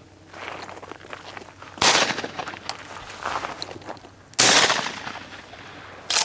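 Two shotgun shots about two and a half seconds apart, each a sharp report with a long fading tail, then a shorter sharp crack near the end; shooting at a dove in flight.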